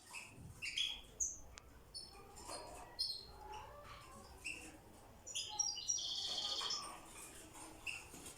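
European goldfinches chirping and twittering in short high calls, with a rapid trill lasting about a second and a half past the middle.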